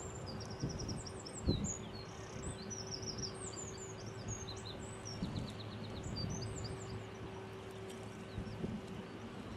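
Small birds chirping and twittering in quick high notes and short trills, over a steady low hum and a low outdoor rumble.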